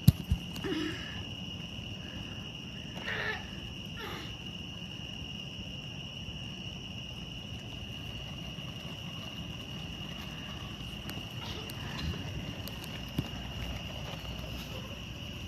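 Crickets chirring in a steady night-time chorus, one constant high-pitched trill, with a few brief faint noises in the first few seconds.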